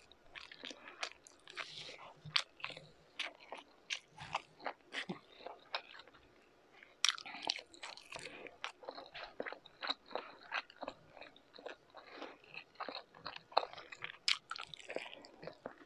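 A person chewing a mouthful of rice and meat close to the microphone: a rapid, uneven run of mouth clicks and smacks, easing off briefly about halfway through before picking up again.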